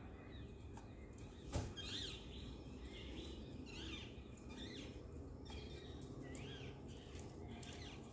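Small birds chirping repeatedly in short, quick rising-and-falling notes over a steady low background hum, with one sharp click about one and a half seconds in.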